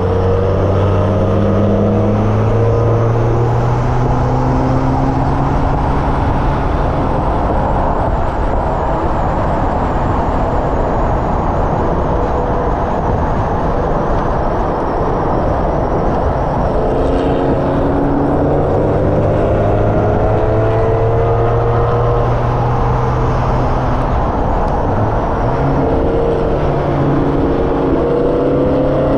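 Hyundai Elantra N's turbocharged four-cylinder engine being driven hard around a race track. The engine note rises repeatedly under acceleration and drops as the driver lifts or brakes, over a constant roar of wind and tyre noise.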